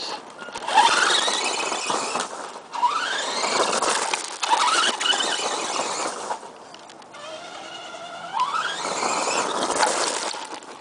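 Electric RC monster truck's Team Powers 540 motor and gears whining in about four throttle bursts, the pitch rising with each burst, over a rough hiss.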